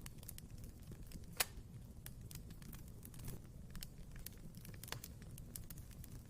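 Wood fire burning in a fireplace: a low steady rumble with scattered crackles and sharp pops, the loudest pop about a second and a half in and another near the end.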